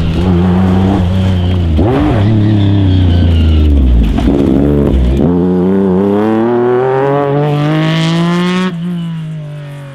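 Rally car engine driven hard on a stage: the revs dip about four seconds in, then climb steadily under full throttle until a sudden drop near the end, after which the engine sound falls away and fades as the car goes past.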